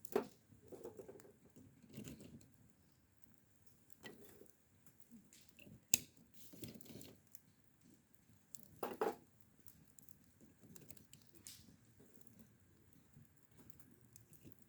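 Scattered light knocks, clicks and rustles of small objects being handled, with one sharp click about six seconds in and a louder cluster of knocks near nine seconds.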